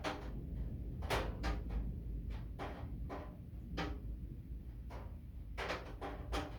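Thunderstorm rain: heavy drops striking a hard surface in irregular sharp taps, a couple a second, over a steady low rumble.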